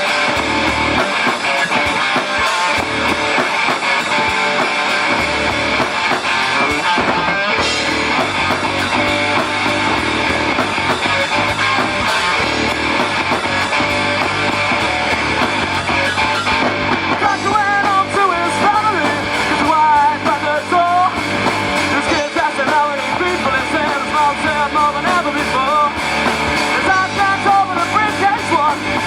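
Live rock band playing an instrumental passage between verses: guitars and drums, with a bending, wavering lead melody coming in a little over halfway through.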